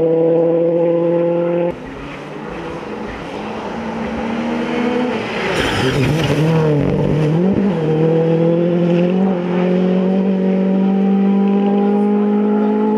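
Rally car engine at high revs, cut off abruptly about two seconds in. Then a car on the stage: a burst of tyre noise and dipping revs near the middle, followed by the engine pulling hard with its pitch climbing steadily.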